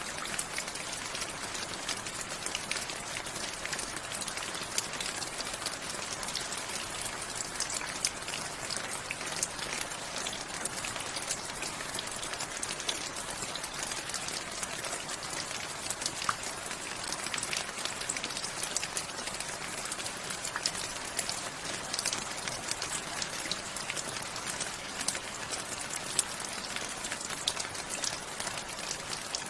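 Steady rain falling, an even hiss full of many small, sharp drop impacts on hard surfaces.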